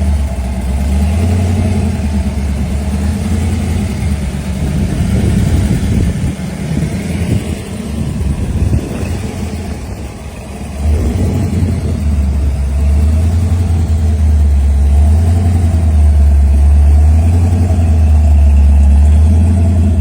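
Engine of a 1972 Chevrolet Nova Pro Street running with a deep, steady note. The sound is uneven through the first half and dips slightly about ten seconds in, then holds steady and louder.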